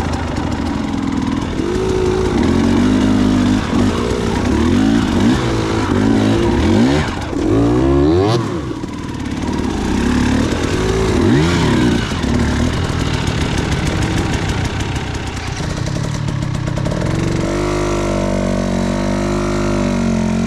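Dirt bike engine revving up and down repeatedly as the throttle is worked, then running steadier at higher revs over the last few seconds.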